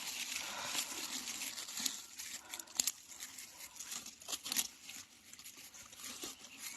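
Rustling and crackling of dry leaves, twigs and undergrowth being pushed through and handled, with a couple of sharp snaps about three and four and a half seconds in.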